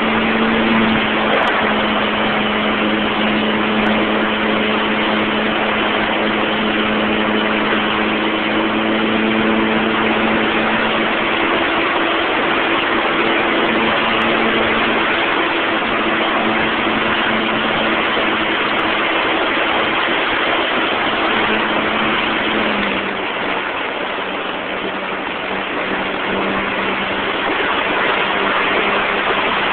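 Model airplane's motor and propeller running at a steady tone under heavy wind rush over the microphone of a phone strapped beneath the plane in flight. About three-quarters of the way through, the motor's tone drops slightly and the sound gets a little quieter.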